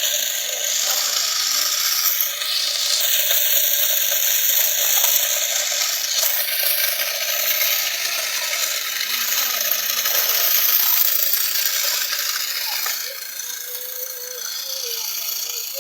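Homemade toy tractor-driven wheat thresher running, giving a steady, dense mechanical rattle that eases off a little near the end.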